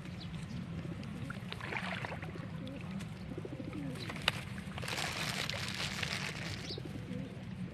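Pigeons cooing, with two stretches of rustling or fluttering and a single sharp click about four seconds in, over a steady low hum.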